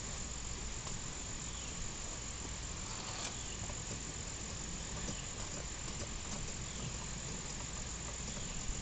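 Outdoor insect chorus: a steady, high-pitched chirring drone with faint scattered ticks over a low background hiss. No gunshots.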